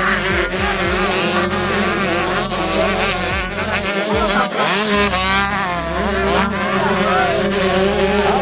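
Several off-road racing motorcycle engines buzzing and revving, their pitch wavering up and down as the bikes race, with one climbing sharply about four to five seconds in.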